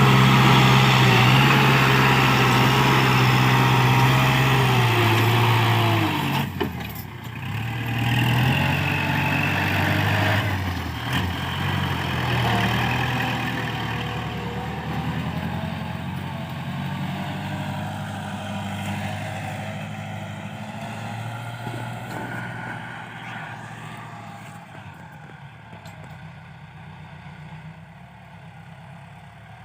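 Kubota L5018SP tractor's diesel engine running loud and steady. About six seconds in, its note drops and becomes uneven. It then fades gradually, quieter and quieter toward the end, as the tractor works away.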